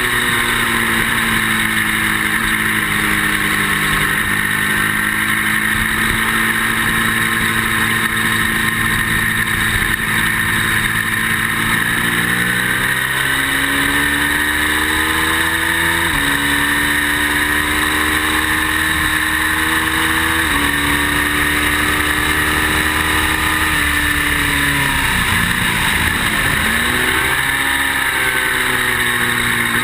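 Ducati V-twin motorcycle engine at speed under wind rush. It revs up, shifts up twice about halfway and two-thirds of the way through, then winds down as it slows and picks up again near the end.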